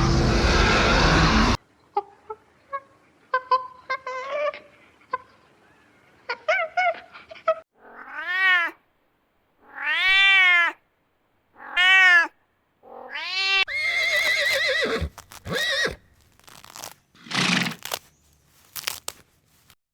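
A cat meowing: after some short soft mews, four loud drawn-out meows about two seconds apart, each rising then falling in pitch, then rougher, noisier calls. It opens with a loud burst of noise lasting about a second and a half.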